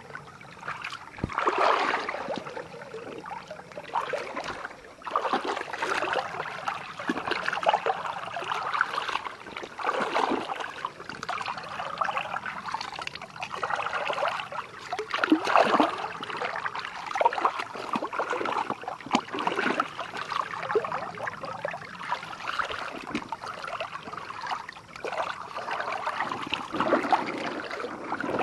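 Water splashing and trickling in uneven, irregular bursts.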